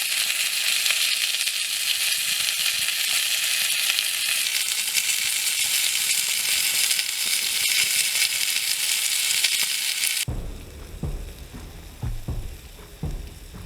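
Cornish game hen sizzling steadily as it sears on a hot metal shovel blade over a campfire. The sizzle cuts off suddenly about ten seconds in, leaving faint, irregular low thuds.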